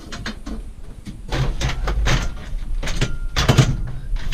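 Scrap items being shifted and rearranged by hand: a run of scraping, rustling and clattering knocks, loudest around a second and a half in and again near three and a half seconds, over a steady low rumble.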